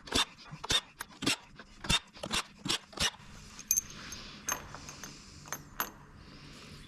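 Metal hand tools and bolts clicking and clinking while the fixings of a battery module are undone: a quick run of sharp clicks for about three seconds, then fewer, ringing metallic clinks.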